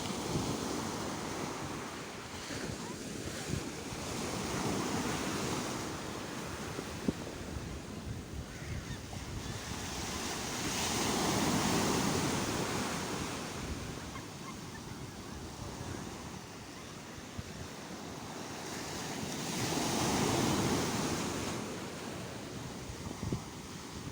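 Sea waves breaking and washing in, the surf swelling and fading in slow surges several seconds apart, with wind buffeting the microphone.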